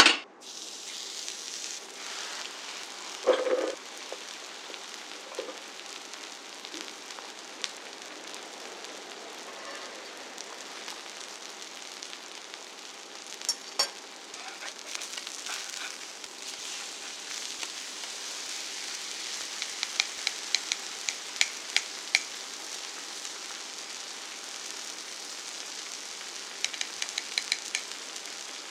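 Black-pork belly sizzling on a large iron griddle over a wood fire, a steady frying hiss. There is one dull thump about three seconds in, and a few runs of sharp ticks later on.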